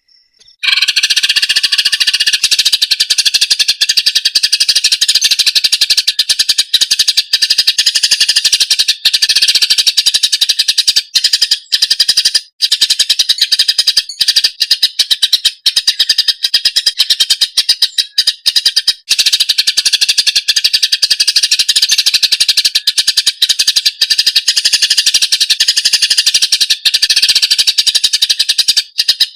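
Cucak ijo (green leafbird) singing a loud, rapid, unbroken stream of high chirps and trills, starting about half a second in after a moment of silence.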